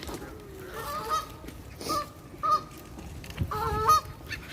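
Geese honking: several short calls at irregular intervals, two of them close together near the end.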